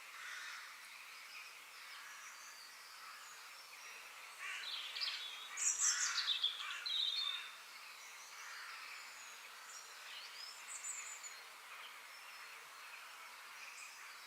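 Wild birds singing and chirping over a steady outdoor background hiss, with a louder, busier burst of quick sweeping calls about halfway through.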